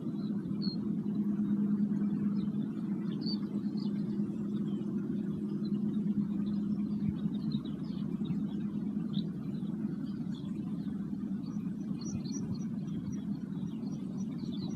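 Singing bowls humming with two steady low tones that slowly swell and fade, while small birds chirp faintly in the background.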